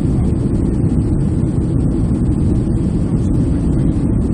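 Airliner cabin noise: a steady low roar of jet engines and rushing air, heard inside the passenger cabin.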